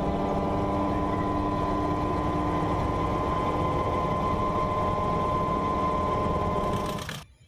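Grob G 120TP trainer's turboprop engine and propeller running with a steady drone and a whine. The sound cuts off suddenly near the end.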